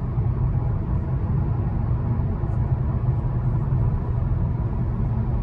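Steady low rumble of tyres and engine heard inside the cabin of a moving Hyundai Elantra AD.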